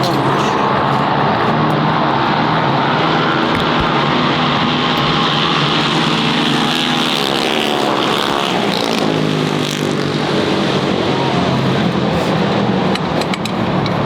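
Mini bike engine running steadily, its note shifting up and down in pitch around the middle.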